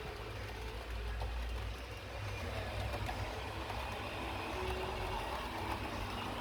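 Model train running on the layout track: a faint, steady low rumble.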